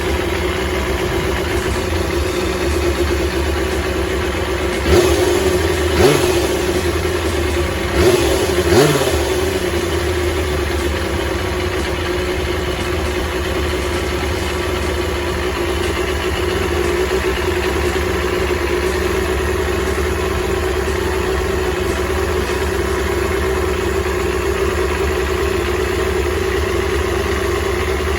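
Kawasaki Balius 250 inline-four motorcycle engine idling steadily on its freshly refitted carburettors, with four quick throttle blips that rise and fall back between about five and nine seconds in.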